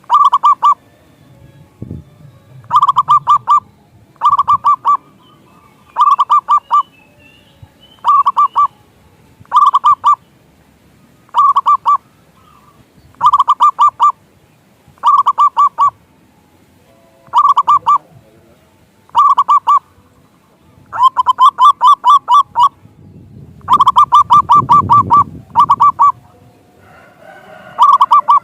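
Zebra dove (perkutut) cooing in short bursts of rapid notes, about one every two seconds. Toward the end the bursts lengthen into longer rolling strings of notes.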